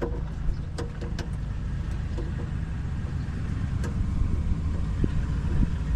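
A steady low engine rumble, with a few sharp clicks of metal parts being handled during hand repair work on a machine.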